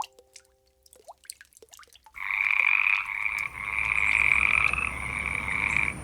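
Frogs croaking: a few scattered calls at first, then from about two seconds in a loud, continuous chorus with a couple of brief breaks.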